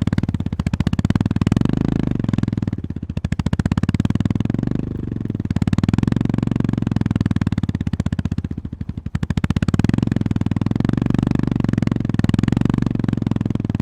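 Honda GB350S single-cylinder engine running under throttle with a steady rapid pulse. It eases off briefly about five seconds in and again around nine seconds, then pulls again.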